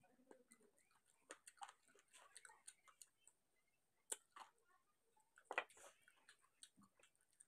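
Faint chewing and lip-smacking from eating chicken kosa and rice by hand: a scatter of small, irregular clicks and wet smacks, the loudest about five and a half seconds in.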